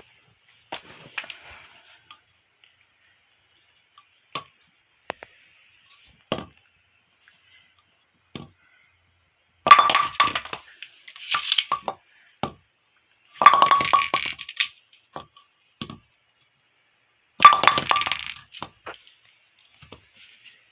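Bowling pins being knocked about: a few single knocks, then four bursts of rapid clattering impacts with a ringing tone, the loudest about halfway through.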